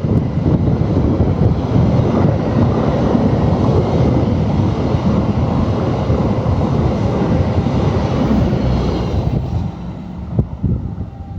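Passenger train hauled by a KAI CC206 diesel locomotive passing close by at speed: a loud, steady rushing rumble of wheels and air that drops away sharply about ten seconds in as the train clears, followed by one sharp click.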